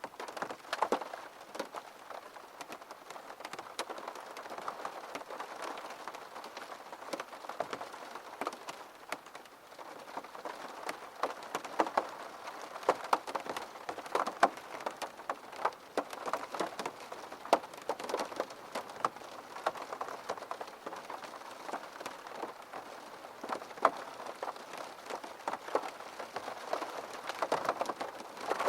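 Steady rain falling on a surface, a constant hiss with many separate drops striking as sharp ticks.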